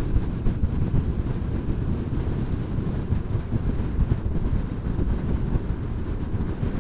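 Steady wind noise and rumble on a motorcycle rider's microphone while riding along.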